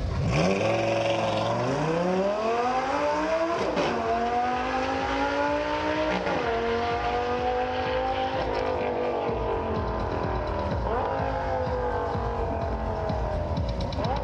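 Sports car engine at full throttle, accelerating hard and rising in pitch through the gears. Sharp upshifts come about three and a half and six seconds in, then it holds a steadier note at speed.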